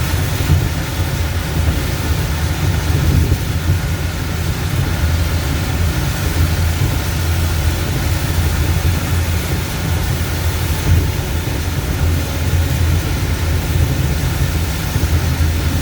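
Steady low rumble of a car driving at highway speed, heard from inside the cabin, with an even hiss of wind and heavy rain over it.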